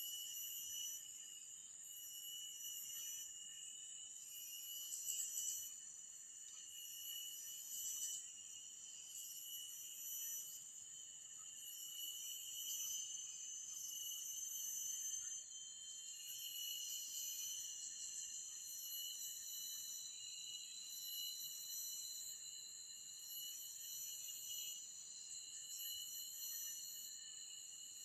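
Forest insect chorus: several layers of steady, high-pitched shrilling that swell and fade every couple of seconds.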